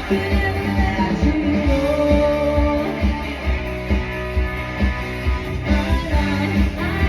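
Live band playing a song with singing, guitar and a steady beat.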